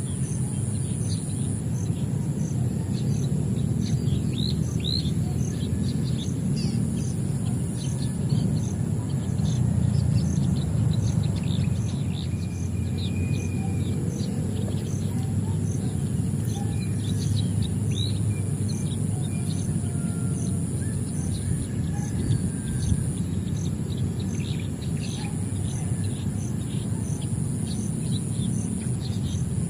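Songbirds chirping in many short, quick calls over a constant low rumble. A steady high-pitched buzz with a regular pulse about one and a half times a second, typical of insects, runs beneath them.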